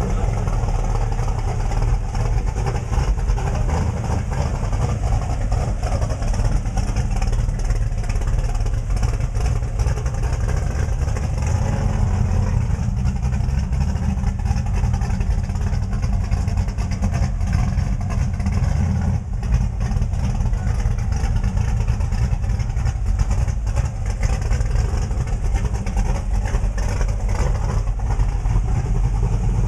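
Ford Mustang drag race car's engine running at idle, a loud, steady, deep rumble.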